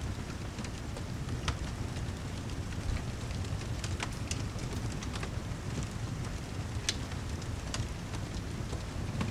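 Steady rain with a low rumble under it, and a wood fire crackling, its sharp pops scattered through the rain.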